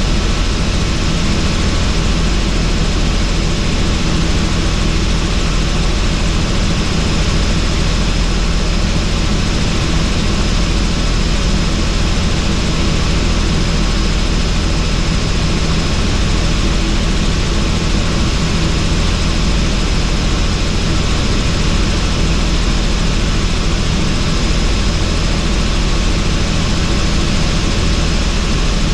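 Helicopter in flight with its doors off: loud, steady rotor and engine noise mixed with rushing wind, with a thin steady high whine over it.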